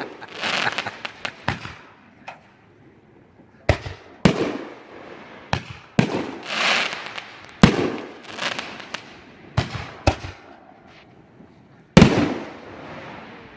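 Fireworks going off: a string of sharp bangs, a second or two apart, each followed by a crackling hiss. One of the loudest bangs comes near the end.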